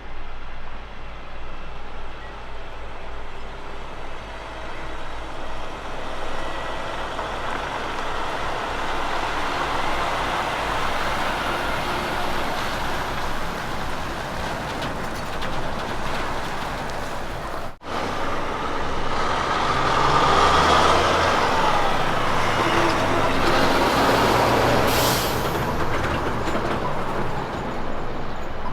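Kenworth K200 road trains driving by: heavy diesel engine and tyre noise rising as a truck and its trailers approach. After a sudden cut, another road train passes closer and louder, with a short hiss of air about 25 seconds in.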